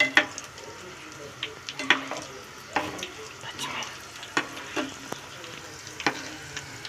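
Cashews and green chillies frying in hot oil, with a steady sizzle, while a spoon stirs them in the pan. The spoon knocks and scrapes on the pan every half second to a second. The nuts are being fried lightly until golden.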